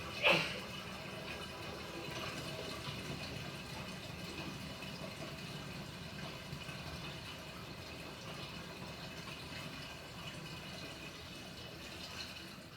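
Water running and sloshing inside the tub of a Panasonic NA-FA100H9 top-loading washing machine. A sharp click comes about a third of a second in.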